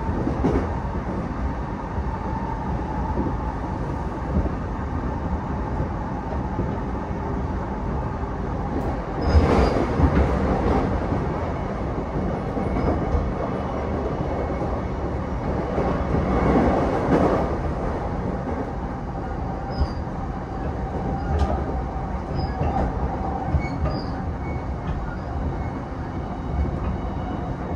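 Running noise inside an E233-7000 series commuter train motor car travelling between stations: a steady rumble of wheels on rail. The noise swells louder twice, about ten and seventeen seconds in.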